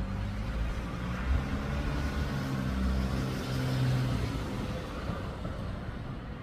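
A car going by: engine hum and tyre noise building to their loudest about halfway through, then fading away.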